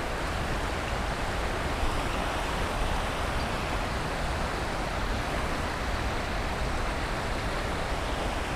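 Steady rush of water pouring over a creek spillway and small waterfall, an even hiss with a low rumble under it.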